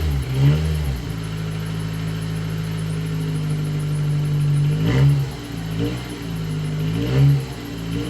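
Honda Accord engine, fitted with a cold air intake and a near-stock exhaust, running steadily just after a cold start and revved briefly three times: about half a second in, about five seconds in, and about seven seconds in.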